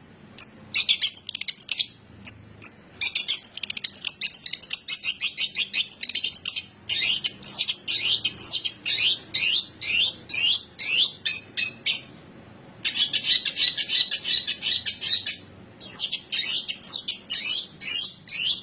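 Long-tailed shrike (cendet) singing: long runs of fast, sharp chattering and sweeping notes, broken by two short pauses in the second half.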